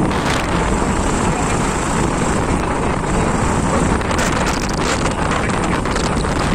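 Wind buffeting the microphone over the steady road and engine noise of a moving motorcycle.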